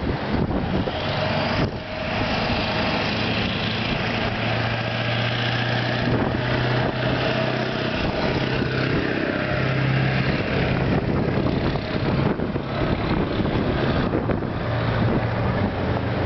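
A motor vehicle running steadily: a low, even hum under a constant noisy rush.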